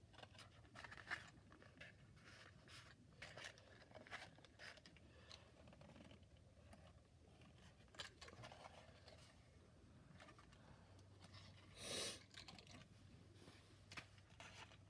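Faint handling of cardboard playset pieces: scattered light rustles, taps and scrapes, with one louder scrape or crinkle about twelve seconds in.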